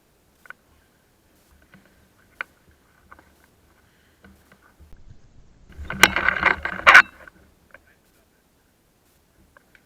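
A short mechanical clatter with two sharp clicks about a second apart, after a few faint scattered clicks.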